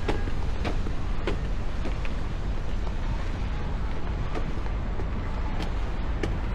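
Wind buffeting the microphone over a steady low street rumble, with footsteps at a walking pace clicking about every two-thirds of a second in the first two seconds and again near the end.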